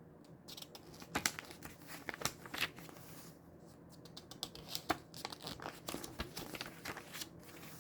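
Hands handling a CD case and its paper booklet: paper rustling and crinkling with many scattered clicks and taps.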